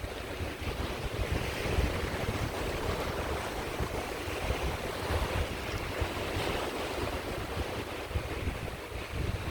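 Sea waves washing onto a beach, a continuous surf wash that swells twice, with wind rumbling on the microphone.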